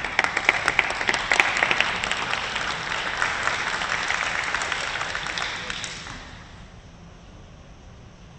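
Arena crowd applauding with dense clapping, which dies away about six seconds in to a quiet hall.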